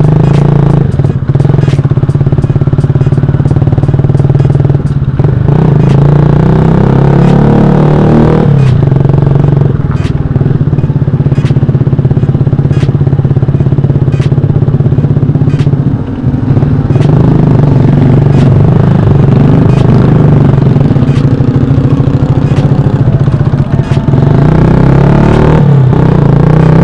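Motorcycle with a very loud aftermarket exhaust running close to the microphone, loud enough to overload it, its engine note dipping briefly several times as the throttle eases and picks up again.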